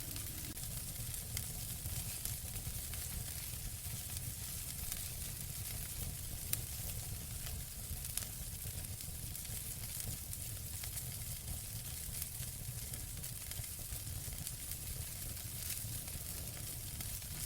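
Wood fire burning in a fireplace: a steady hiss and low rumble of flames, with scattered crackles and a couple of sharper pops.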